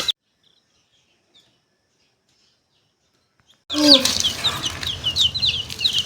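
Cuts to dead silence for about three and a half seconds, then week-old chicks peeping: many short, high notes in quick succession.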